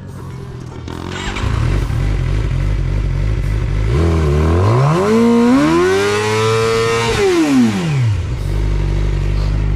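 Motorcycle engine idling, then revved hard about four seconds in, held high for a couple of seconds, and dropping back to idle about eight seconds in.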